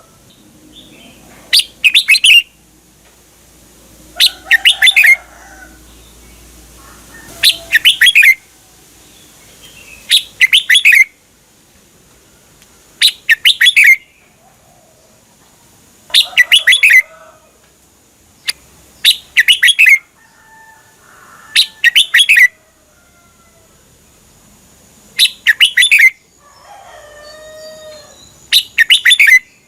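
Red-whiskered bulbul singing: short, rapid phrases of clear notes repeated about every three seconds, about ten times, with softer, lower calls between phrases.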